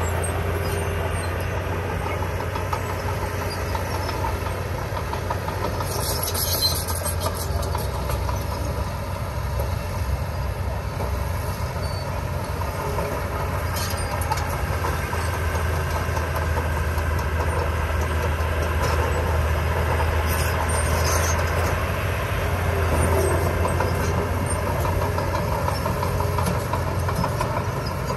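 Diesel engine of heavy earthmoving machinery running steadily with a deep, continuous low hum. Brief high-pitched rattles come through about six seconds in and again around twenty seconds.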